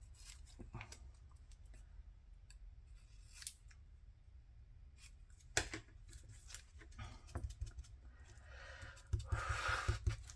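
Scissors snipping paper in short, scattered cuts, with light paper-handling clicks and a breathy noise near the end.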